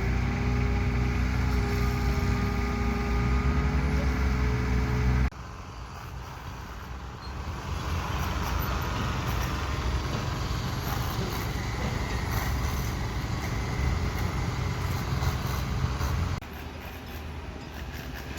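Heavy construction machinery engine running. The sound changes abruptly about five seconds in, from a steady humming drone to a rougher, noisier running, and drops in level again near the end.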